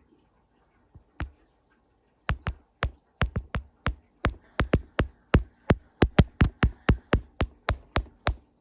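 Woodpecker pecking into wood: a series of about two dozen sharp knocks that quickens and grows louder to about four blows a second, after one or two single taps at the start.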